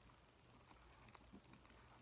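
Near silence with a few faint, soft clicks of quiet chewing.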